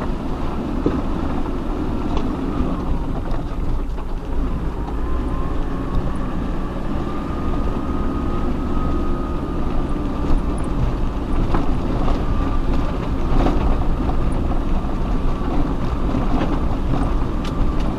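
Off-road 4x4 driving slowly over a rough mountain track: a steady low rumble of engine and tyres with a faint whine, and a few scattered knocks and rattles.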